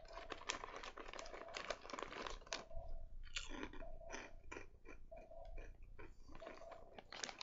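Crunching and chewing of Ips protein chips: crisp, irregular bites one after another. Underneath, a faint heartbeat-like noise from a baby swing repeats about every second and a quarter.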